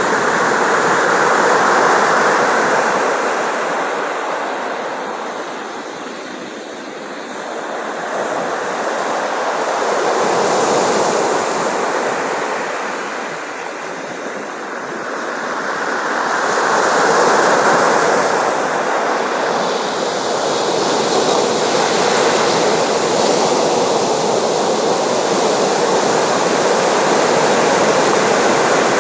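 Sea surf: a rushing wash of waves that swells and fades three times, each swell lasting several seconds, then settles into a steadier rush near the end.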